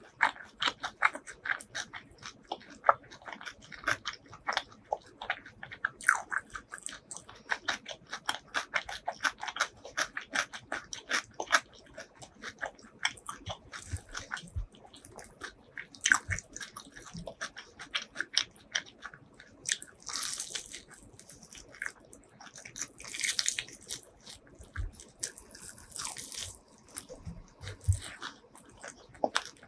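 Close-miked eating sounds: rapid crunchy chewing and biting of food, dense through the first half and sparser later, with a few short hissing mouth sounds in the last third.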